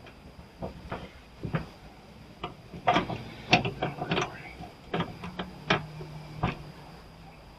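Irregular metal clinks, knocks and scrapes of hand tools working on an old welder's parts as it is taken apart, busiest about three to four seconds in.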